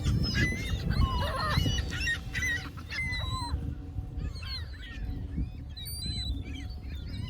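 A flock of birds calling over one another with many short honking calls, thickest for the first few seconds and then thinning out.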